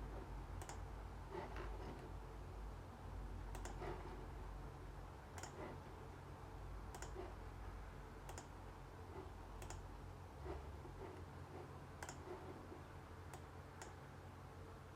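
Single sharp clicks at irregular intervals, roughly one every one to two seconds, over a steady low hum.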